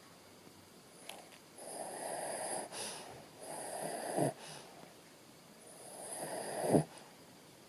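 Shih Tzu snoring in its sleep: three slow breaths, each swelling over about a second, the last two ending in a short, sharp falling sound.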